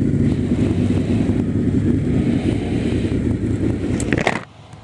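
Motorcycle engine idling steadily, then shut off about four seconds in.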